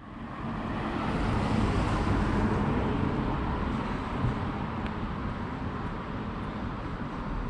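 City background noise: a steady rumble of traffic, fading in over the first second.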